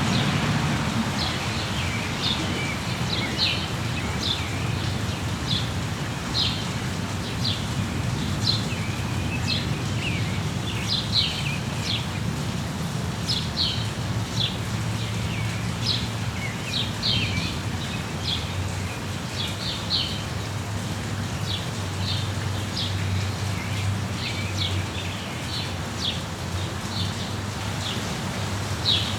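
Songbirds chirping over steady rain: many short, high chirps and calls, several a second, on top of an even hiss of rainfall.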